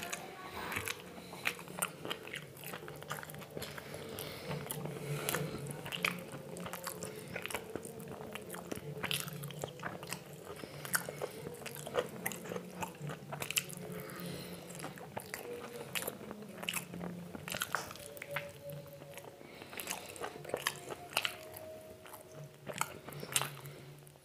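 Close-miked eating: chewing and biting, with frequent sharp wet mouth clicks and crunches throughout.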